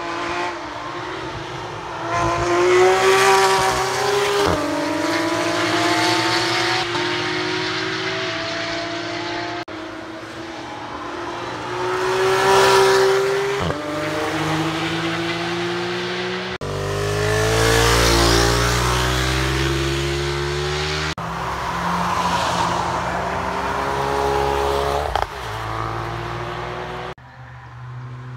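Sports cars accelerating hard past the track side, one car per clip. The engine note climbs, drops sharply at an upshift and climbs again as each car goes by.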